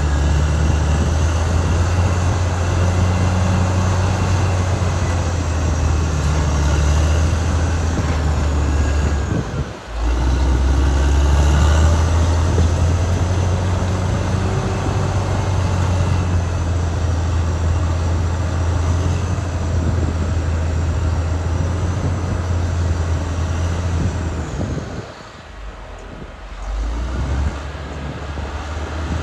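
Caterpillar D6R XL bulldozer's diesel engine running steadily at work, a loud low drone. It drops out for a moment about ten seconds in and goes quieter for a couple of seconds near the end.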